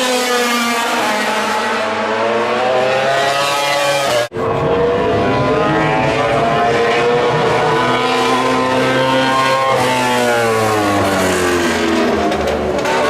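MotoGP racing motorcycle engines running at high revs, the pitch falling and rising again several times as the bikes brake and accelerate. The sound breaks off for an instant about four seconds in.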